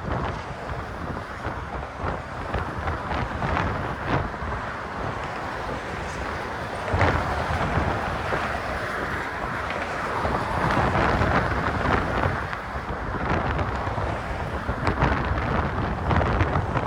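Gusty wind buffeting a phone microphone, a rumbling rush of noise that rises and falls, swelling about seven seconds in.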